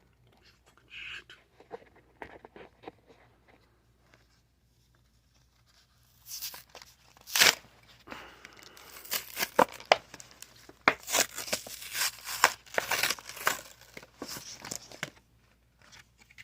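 A trading-card collection box's packaging being torn open. After a few seconds of light handling clicks, loud rips and crinkling crackles start about six seconds in and go on for most of the rest.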